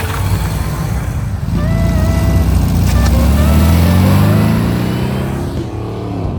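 Car engine accelerating, its pitch rising steadily for about four seconds before easing near the end, with background music underneath.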